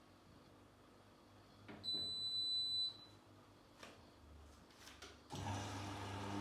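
Washing machine's electronic beep, one high tone lasting about a second, followed by a few faint clicks; at about five seconds the machine starts running with a steady hum and rushing noise.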